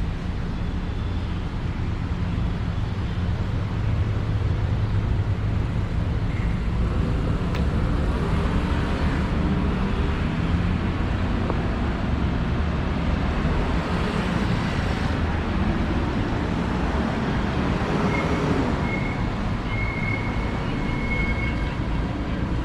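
Steady city street traffic noise, with vehicles passing that swell and fade several times. A thin, high whine comes and goes near the end.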